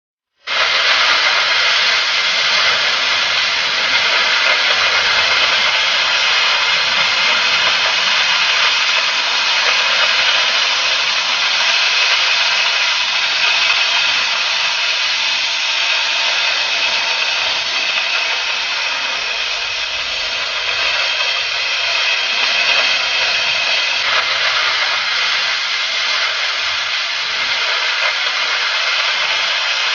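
Oxy-fuel cutting torch of a Huawei HK12 track cutting machine giving a loud, steady hiss of gas and flame, starting abruptly about half a second in and holding even throughout.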